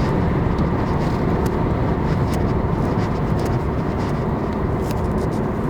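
2002 BMW 520i (E39), with its M54 straight-six, being driven: a steady, even rush of engine and road noise without a distinct engine note.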